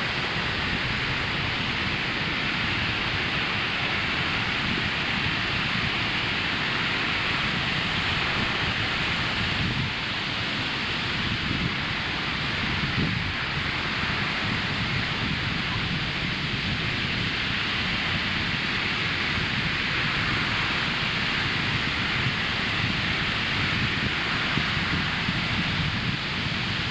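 Ocean surf breaking and washing up a sandy beach: a continuous rush of water that slowly swells and eases.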